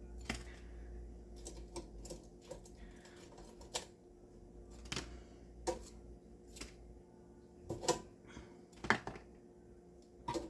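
Scattered light clicks and taps of kitchen utensils being handled, irregular and about one to two a second, over a faint low hum that stops about two-thirds of the way through.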